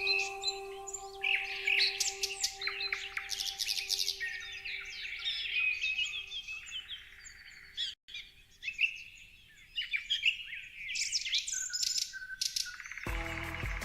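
Several birds chirping and singing, with quick chirps and trills overlapping, over a soft sustained background drone that fades away by the middle. There is a brief dropout about eight seconds in, and a louder, lower musical drone comes in near the end.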